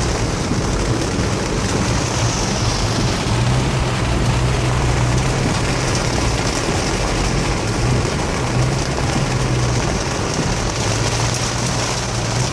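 Suzuki Vitara driving on a wet road: a steady low engine hum under a constant rush of water spray and tyre noise.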